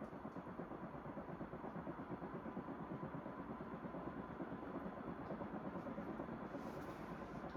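Carroway EF-300 56-inch industrial ceiling fan running near high speed, still slowly gaining speed: a steady whir with a quick, even pulse and a faint steady hum. The owner blames its rough bearings for the slow spin-up.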